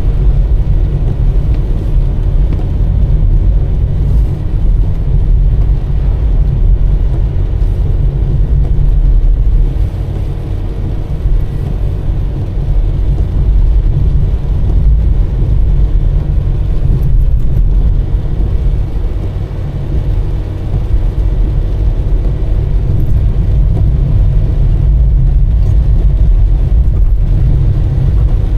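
Car driving along a road: a steady low rumble of engine and tyre noise, easing off slightly twice.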